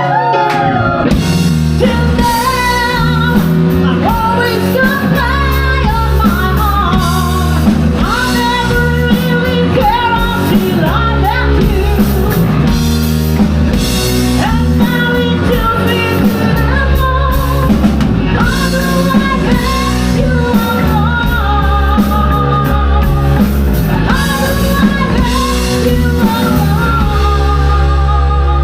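Rock band playing live: a lead singer over guitar, bass and drum kit.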